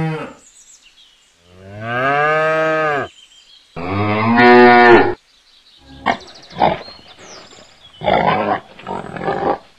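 Cow mooing twice, two long calls that rise and fall in pitch, the second louder. From about six seconds in, piglets grunting in short rough bursts.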